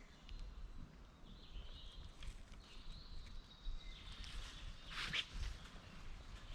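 Faint outdoor ambience with a low rumble and faint thin high tones, and a short burst of rustling or knocking about five seconds in.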